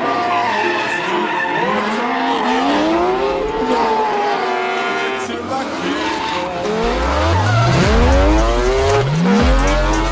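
A motor revving up and down in repeated rising and falling sweeps, with tyre squeal from drifting. A deep bass comes in about seven seconds in.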